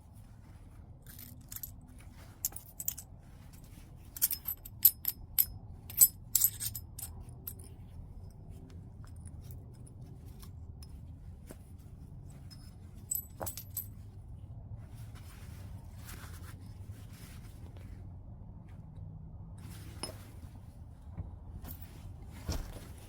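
Flintknapping a piece of white chert: sharp clicks and clinks as the stone is struck and flakes snap off. The strikes come in clusters, the loudest and busiest about four to seven seconds in, with a few scattered strikes later.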